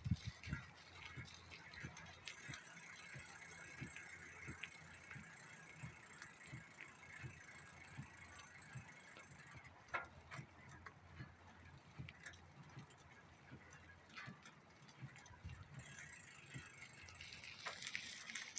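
Bicycle freewheel ticking faintly while coasting, with scattered clicks throughout.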